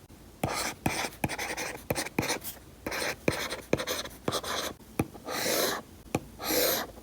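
Stylus with a needle-style tip writing on a paper-like screen protector on an iPad: sharp taps as the tip touches down, between short scratchy strokes, with two longer strokes near the end.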